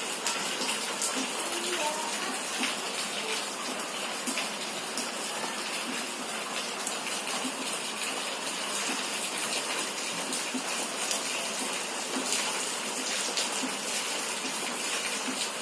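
Steady rushing hiss of rainwater, unbroken throughout.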